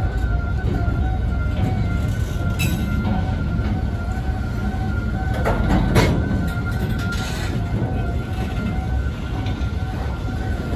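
Container flat wagons of a freight train rolling past close by: a steady low rumble of steel wheels on rail, with a couple of sharp clacks, the loudest about six seconds in.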